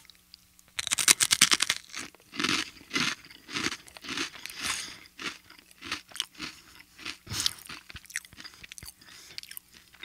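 A loud crunchy bite into a crisp cracker about a second in, followed by close-miked crunchy chewing, about two chews a second, growing fainter near the end.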